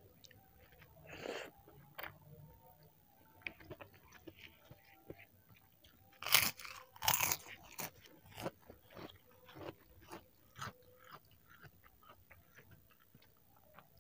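Eating sounds: chewing a mouthful of soupy fried instant noodles, with sharp crunching bites of kerupuk crackers, the loudest two about halfway through, and many smaller crunches and mouth clicks.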